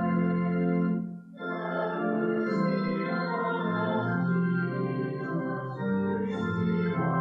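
Church organ playing held chords, with a short break between phrases about a second in.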